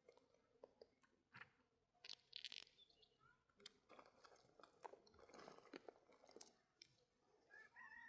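Very faint scattered clicks and crunches, close to near silence, with a faint bird-like tone near the end.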